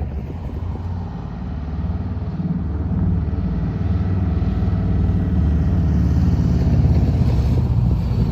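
Norfolk Southern intermodal freight train rolling past, a steady low rumble of wheels on rail that grows gradually louder.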